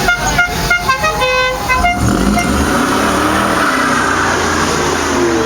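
A musical car horn plays a quick tune of short notes for about two seconds. A car engine then runs on, rising and falling in speed.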